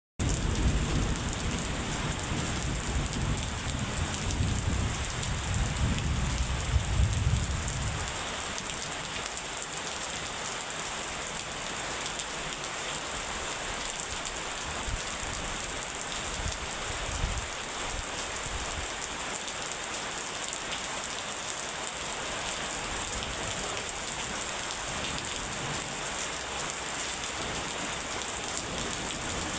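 Steady rain falling, a continuous even hiss. A low thunder rumble runs under it for the first eight seconds or so, then dies away, leaving only the rain.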